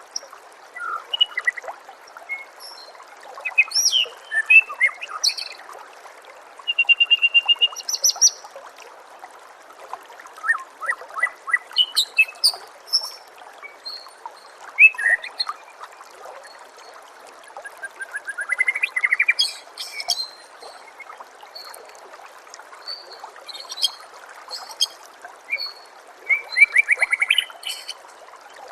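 White-rumped shama (murai batu) singing a rapid, varied run of whistles, chips and quick trills in short bursts, over the steady trickle of running water.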